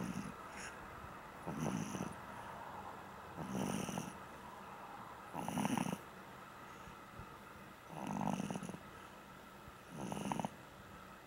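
Pug snoring in deep sleep: a short rattling snore about every two seconds.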